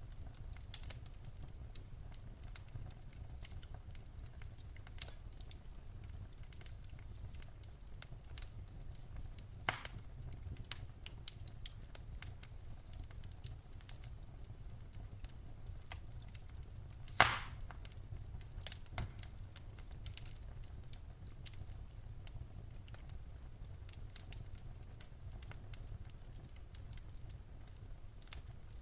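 Wood fire crackling in a fireplace: a low steady rumble of the flames with scattered sharp pops and snaps from the burning logs, the loudest pop about seventeen seconds in.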